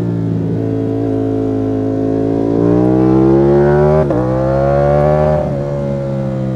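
Ducati Panigale V4 S's V4 engine accelerating hard: its note rises for about three seconds, snaps down at a quick upshift about four seconds in, and rises again. Near the end the throttle closes and the note falls away.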